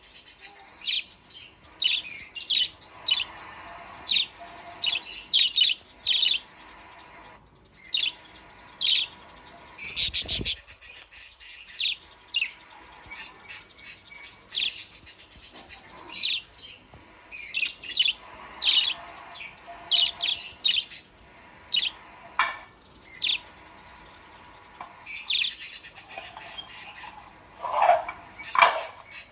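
Pet parakeets (budgerigars) chirping busily: many short high chirps in irregular runs, with a few lower warbling calls near the end. A single sharp knock sounds about ten seconds in.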